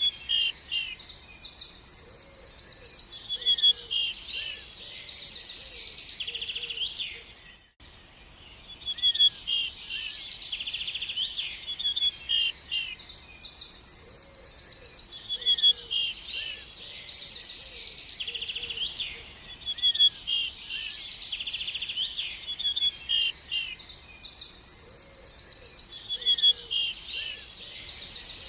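Songbird singing: fast, high-pitched trills and chirps in phrases that repeat every few seconds, with the sound cutting out briefly about eight seconds in.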